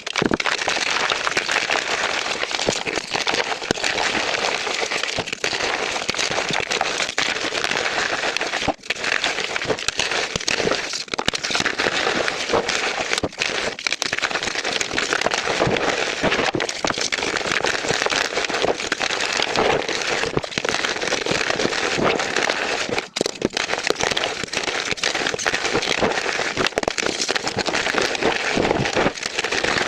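Soft chalk blocks crunching and crumbling, a dense continuous crackle with brief breaks about nine and twenty-three seconds in.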